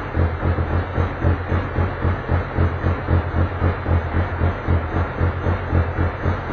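Touring race car engine running at idle with an even, lumpy pulse, about three beats a second.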